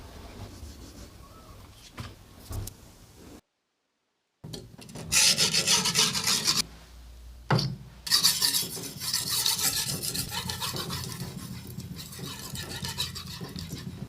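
Abrasive grinding and sanding on a Damascus kitchen knife's steel blade, in edited cuts. A softer rasping comes first, then a moment of dead silence about three and a half seconds in. Loud steady hissing grinding follows from about five seconds in, and again from about eight seconds on.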